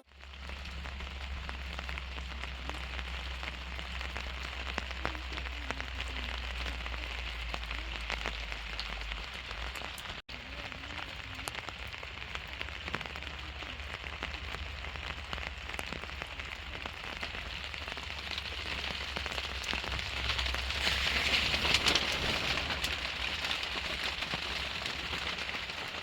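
Steady rain falling, many small drops ticking on surfaces, growing louder for a few seconds about twenty seconds in. A momentary break in the sound comes about ten seconds in.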